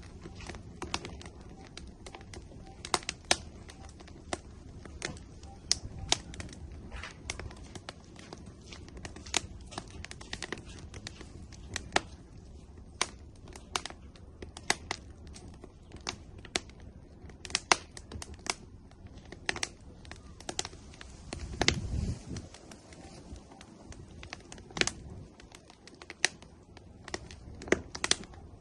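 Wood fire burning in an outdoor grill, crackling and popping with irregular sharp snaps over a low steady rush. A brief louder low rumble comes about 22 seconds in.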